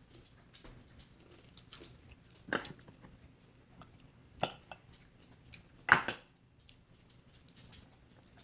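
Hard items being handled and set down, clinking and knocking against each other: a few sharp clatters, the loudest a double knock about six seconds in, with small clicks between.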